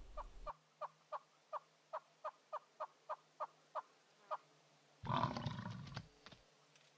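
A bird calling a steady series of short, evenly spaced notes, about three a second, for roughly the first four seconds. About five seconds in there is a loud, rough burst lasting about a second.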